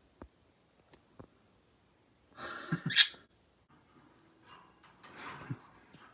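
Pet parakeets squabbling: a harsh, noisy squawk about three seconds in, the loudest sound, and a second, weaker rasping patch near the end.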